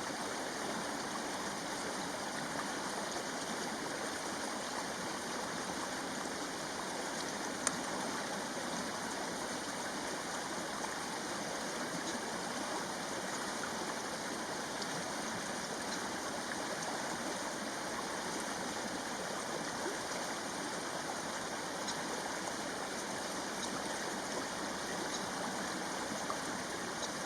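Steady rushing of a stream, with faint, short calls of a crested kingfisher now and then, and one sharp tick a little under eight seconds in.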